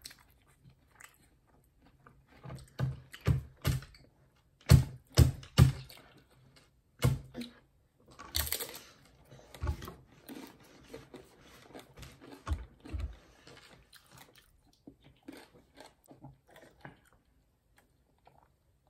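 Close-up crunching and chewing of tortilla chips: a run of loud, sharp crunches in the first half, then softer chewing.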